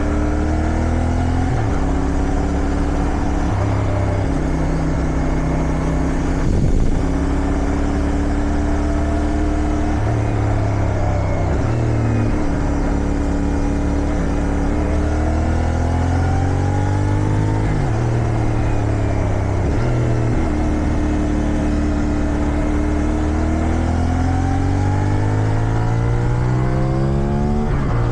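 Motorcycle engine under way, heard from the rider's seat: its pitch climbs as it pulls, then drops at each gear change, over and over, with wind noise underneath. There is a brief loud knock about seven seconds in.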